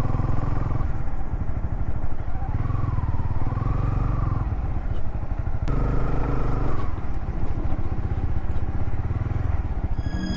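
Motorcycle engine running as the bike is ridden along a trail, a steady low throb with a sharp click about halfway through.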